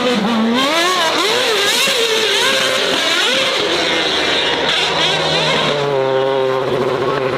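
Performance car engine revved hard, its pitch sweeping up and down again and again, then held at a steady, slightly rising note about six seconds in.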